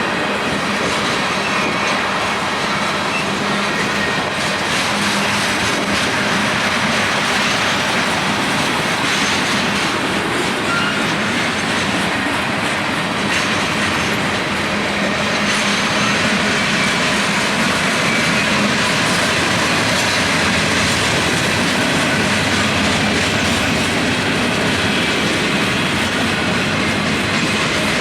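Union Pacific freight train rolling steadily past at close range, its wheels clacking over the rail joints.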